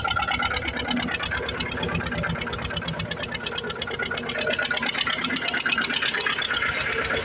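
HMT 2511 tractor's two-cylinder diesel engine running steadily under heavy load while pulling a seven-tine cultivator, with a fast, even firing beat.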